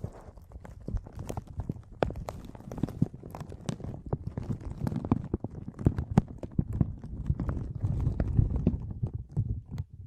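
Close-miked ASMR tapping on objects: quick, irregular taps and clicks in rapid runs, over a low rumbling background.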